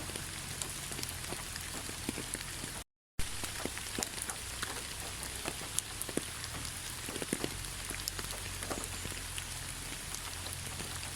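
Steady rain falling, with many separate drops ticking on a surface. The sound cuts out completely for a fraction of a second about three seconds in, then returns with a click.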